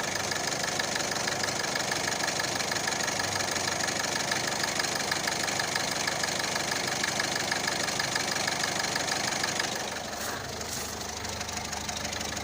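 Citroën C3 engine idling with a fast, even ticking clatter from the front of the engine, which the owner thinks may come from the accessory belt and a worn-out idler or tensioner pulley. About ten seconds in the sound drops and turns to a lower hum, with two short clicks.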